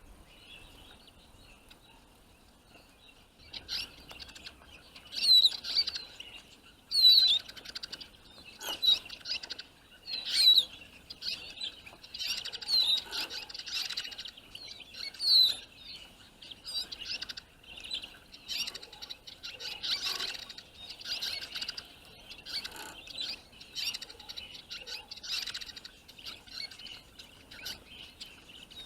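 Small finches chirping and twittering: a few sharp, high chirps begin after a few seconds, then build into a dense, continuous twitter. The birds are calling by a set of clap traps to lure wild birds in.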